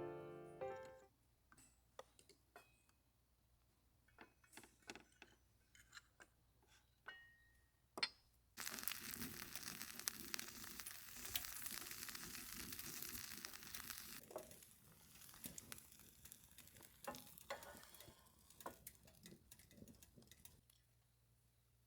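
Quiet clicks and taps of cookware, then about eight seconds in a steady hiss of food sizzling in a pan sets in, easing off over the following seconds.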